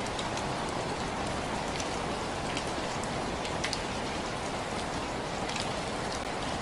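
Steady rain falling, a constant hiss with scattered sharp ticks of single drops striking a surface.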